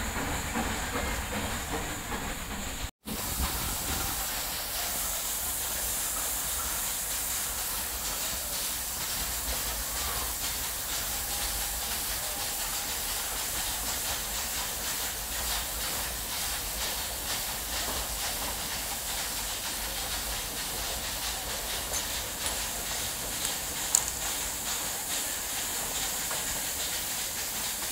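Steady rushing noise of a Nilgiri Mountain Railway passenger train running, heard from an open carriage window. The sound cuts out for an instant about three seconds in, and there is one sharp click near the end.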